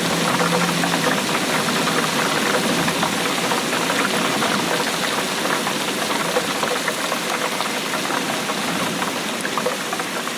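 Steady rainfall, a dense patter of many small drops.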